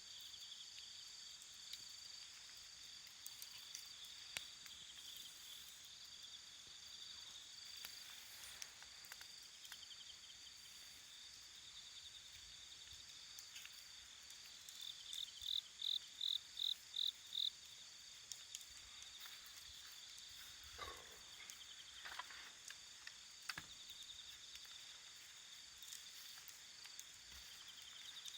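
Night insects chirring steadily at a high pitch, with one nearby insect giving a run of about seven loud chirps about halfway through. Faint scattered crackles from the wood fire.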